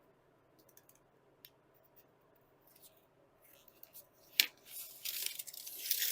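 Foil-backed peel-and-stick sound deadener sheet being marked and handled: after a few quiet seconds, a sharp click, then scratchy rustling and a sharp snap at the end.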